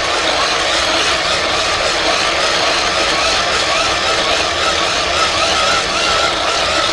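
Wood fire in a maple sap evaporator's firebox burning hard, a steady rushing noise with a faint wavering tone through it.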